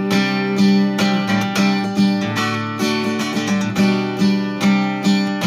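Acoustic guitar strummed in a steady rhythm, with chords ringing between the strokes and no voice over it.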